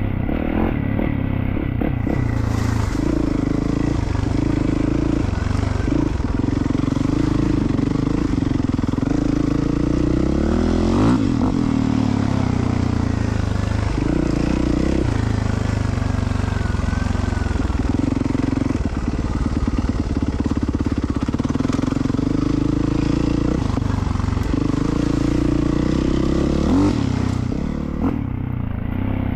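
Yamaha WR450F dirt bike's single-cylinder four-stroke engine under way, its revs rising and falling again and again, with a quick rev-up and drop about eleven seconds in. A steady hiss of rushing air sits over the engine for most of the ride and fades near the end.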